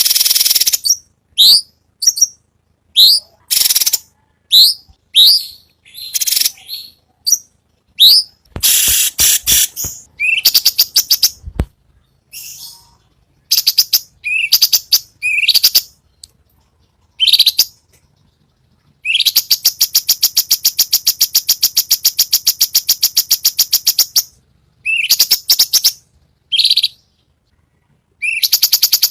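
Cucak cungkok singing: a string of loud, short upward-sweeping whistled notes mixed with harsher, scratchy notes, then a long rapid rattling trill (besetan) of about five seconds beginning about two-thirds of the way in, with another trill starting near the end.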